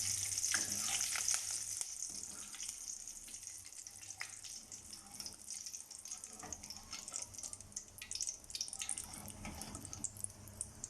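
Hot frying oil sizzling with curry leaves in it, dying down after the stove is switched off. A high hiss is strongest at first and slowly fades, with scattered sharp crackles and pops throughout.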